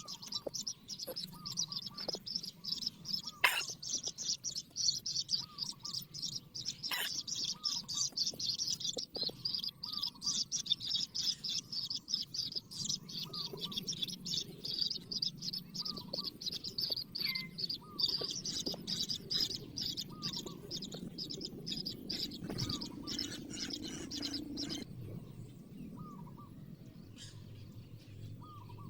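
Small birds chirping rapidly and continuously, many high notes a second, which stop about 25 seconds in. A short, lower call repeats every couple of seconds throughout.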